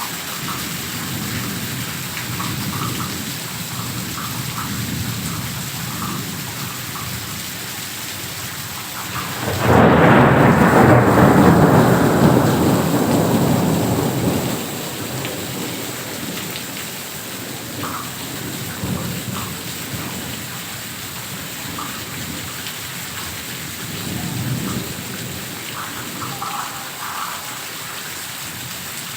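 Heavy rain falling steadily. About ten seconds in, a loud clap of thunder breaks in and rumbles for about five seconds before fading back under the rain.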